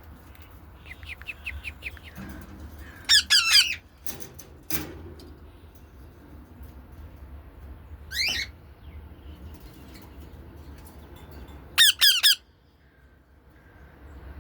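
Caged pet birds squawking: a soft run of quick chirps about a second in, then loud, harsh, wavering squawks three times, around three, eight and twelve seconds in. Two sharp knocks come between the first and second squawks.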